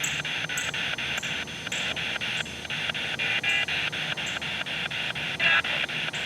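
Spirit box sweeping through radio frequencies: hissing static chopped by rapid sweep clicks about five times a second. A brief louder snatch of broadcast sound comes about five and a half seconds in.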